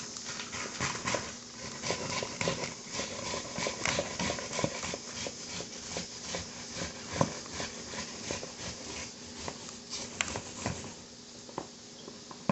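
Kitchen knife chopping cabbage on a cutting board: a steady run of quick knocks, several a second, that thins out near the end.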